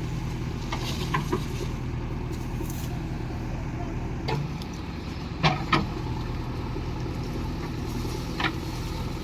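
Diesel engine of farm machinery, a tractor or JCB loader, running steadily, with several sharp knocks and clanks; the loudest are a pair about five and a half seconds in.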